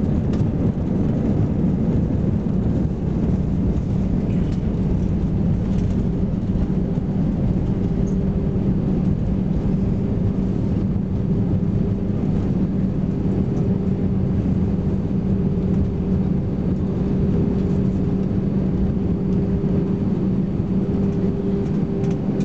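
Cabin noise inside an Airbus A320-214 rolling on the ground after landing: a steady rumble with a low, even hum from its CFM56 engines at low power.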